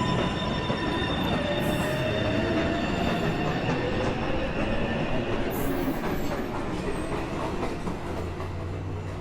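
A subway train pulling out of the station, its wheels squealing and its traction motors giving a faint whine that rises in pitch as it accelerates. The rumble slowly fades near the end.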